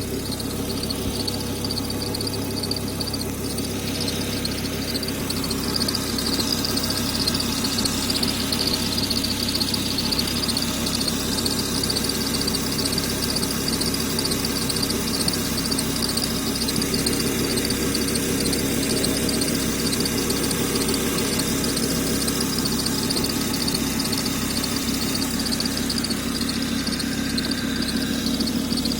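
A squeaking bearing in a running machine: a steady high squeal over a low hum. The squeal grows louder about six seconds in and then holds.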